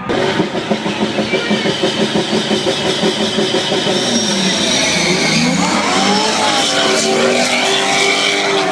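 Race truck engines running loud at the start line. A throbbing pulse of about five beats a second gives way, about halfway through, to rising and falling revs.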